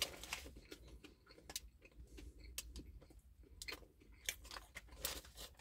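A person chewing a mouthful of brisket burger: faint, irregular small clicks and squelches from the mouth.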